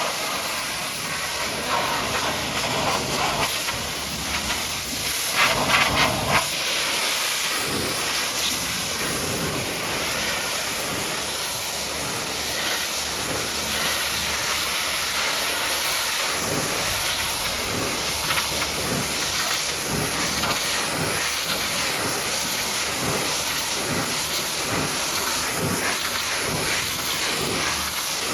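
High-pressure water jet from a pressure washer spraying against a truck, a steady hiss with a louder flurry about five seconds in.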